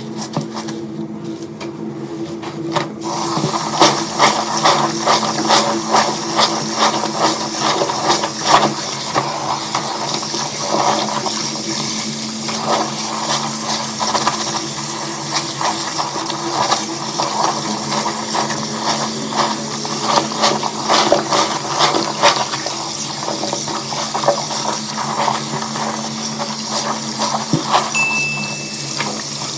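Water running and splashing, starting about three seconds in, over a steady low hum.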